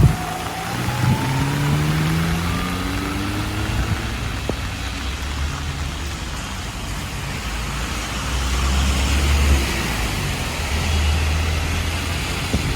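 Street traffic in heavy rain: a vehicle's engine rising steadily in pitch as it accelerates over the first few seconds, then the low hum of passing vehicles, over a constant hiss of rain and wet road.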